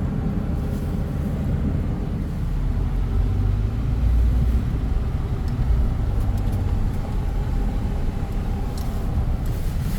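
Vehicle driving slowly through standing flood water, heard from inside: a steady low engine and road rumble with a faint engine hum.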